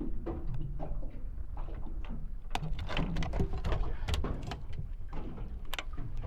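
Wind rumbling on the microphone aboard a small fishing boat, with scattered knocks and clicks of handling gear.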